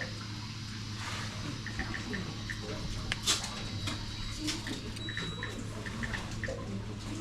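Steady low hum inside an enclosed fishing boat cabin, with scattered small clicks and short high pips, and one sharper click about three seconds in.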